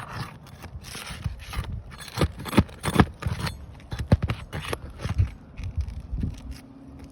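Irregular clicks, knocks and scrapes, the loudest sharp knocks about two to four seconds in.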